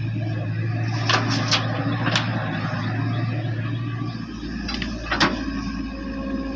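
Doosan DX55 mini excavator's diesel engine running steadily, with a quick cluster of sharp metallic clanks about a second in and one more near the end. The engine note changes about four seconds in.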